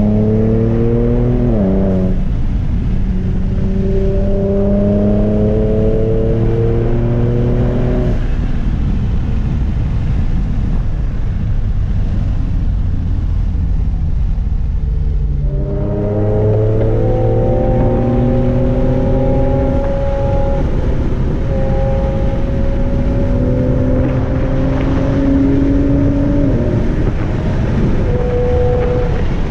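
Nissan Z Proto's twin-turbo V6 with catless downpipes and a 3-inch exhaust, heard from inside the cabin under acceleration. The pitch climbs and drops at an upshift about two seconds in, then climbs again. For about seven seconds from about eight seconds in, only a steady road and tyre rumble remains, before the engine pulls again through further shifts.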